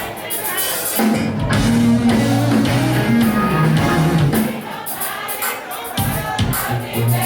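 A live band playing, with a moving bass line and cymbal hits; a voice sings over it.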